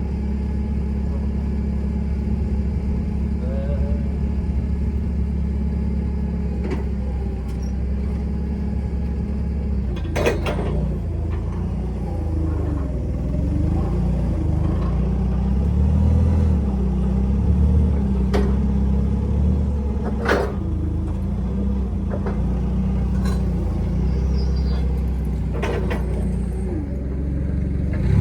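Nissan forklift engine running steadily, working harder in the middle stretch as it positions a heavy rear axle, with a few sharp knocks about ten, eighteen, twenty and twenty-six seconds in.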